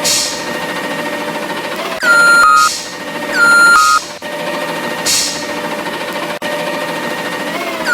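Garbage truck machinery running with a steady whine, broken by several short hisses and, about two, three and a half and eight seconds in, a short tone that steps down in pitch.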